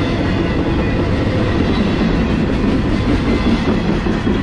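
Double-stack intermodal freight train's well cars rolling past: a loud, steady rumble of steel wheels on rail with wheel clatter over the track.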